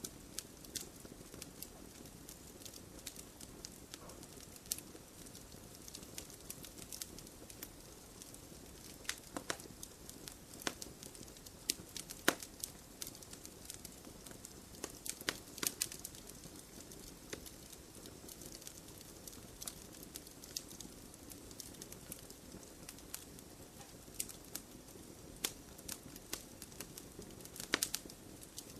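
Wood campfire crackling, with irregular sharp pops and a few louder snaps over a low, steady rush of the flames.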